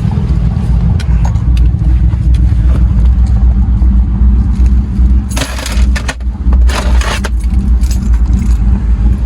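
Chevy Tahoe driving, heard from inside the cab: a steady low engine and road rumble. Two short rushing noises come a little after halfway, about a second apart.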